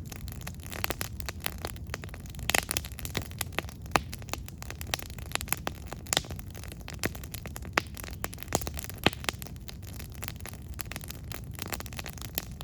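Campfire with burning wood crackling in irregular sharp pops, a few of them louder, over a low steady rush of the flames.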